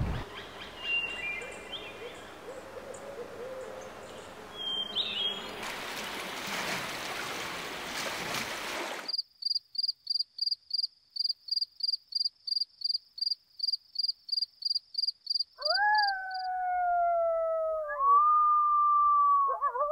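A sequence of natural sounds: a noisy outdoor wash with a few faint high chirps that swells and then cuts off suddenly, then a fast series of high, even-pitched pips about three a second, then a wolf howling, a long call that slides down and then holds steady.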